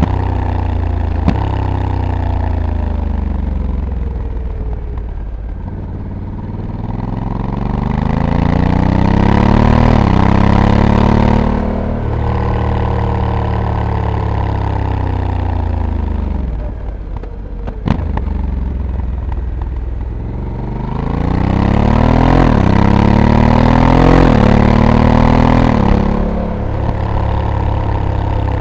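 Honda Africa Twin DCT's 1084 cc parallel-twin engine under way on a mountain road. It twice accelerates hard, its pitch climbing and dropping back in steps as the dual-clutch gearbox shifts up, and eases off in between. There is a short sharp click about eighteen seconds in.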